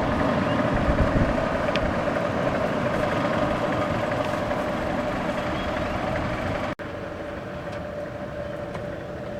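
Steady running machinery with a constant hum. It breaks off abruptly about seven seconds in and carries on a little quieter.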